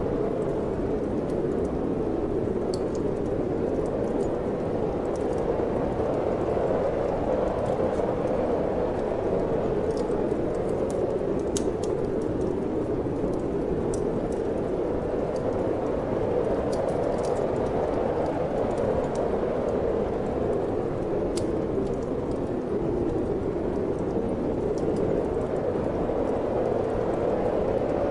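Steady wind blowing, with a wood fire in a fireplace crackling in scattered small pops.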